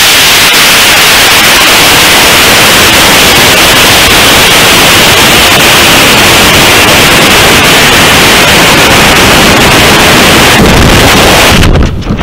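Loud, steady rushing hiss heard from a camera mounted on a model rocket in flight, the airflow and motor noise so loud the recording distorts. It cuts off abruptly near the end, giving way to quieter low wind buffeting.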